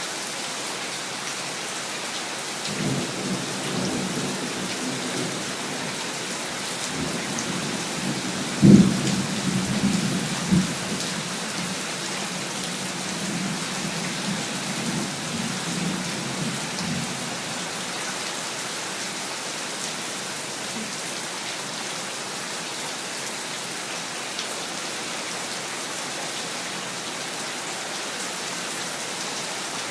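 Steady heavy rain with a roll of thunder: low rumbling begins a few seconds in, a sharp crack comes about nine seconds in with a second, smaller one shortly after, and the rumble dies away about halfway through while the rain keeps falling.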